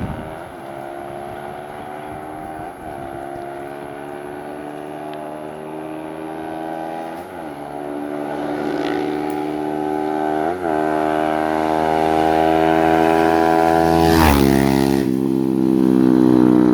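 Kawasaki Ninja 250SL single-cylinder engine with an aftermarket SC Project exhaust accelerating. Its note climbs steadily with four brief dips as it shifts up through the gears, and it grows louder toward the end as the bike passes.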